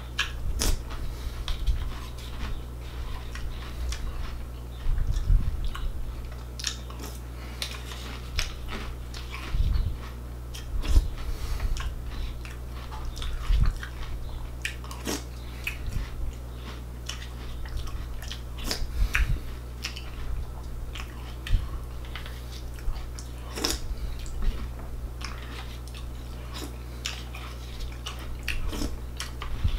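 A person chewing mouthfuls of crunchy breakfast cereal close to the microphone, with irregular crackling crunches, and a metal spoon clicking and scraping in a plastic bowl between mouthfuls. A steady low hum runs underneath.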